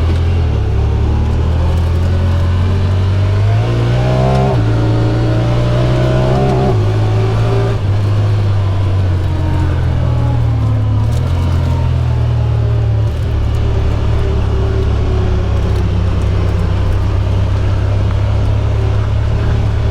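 Side-by-side UTV engine running under way on the trail, its pitch rising twice in the first seven seconds as it speeds up, then settling into a steady drone.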